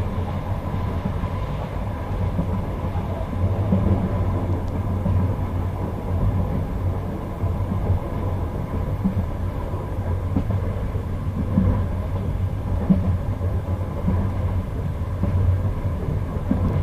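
Passenger train carriage running along the line, heard from inside: a steady rumble of wheels on rail, with a few clacks as the wheels pass rail joints.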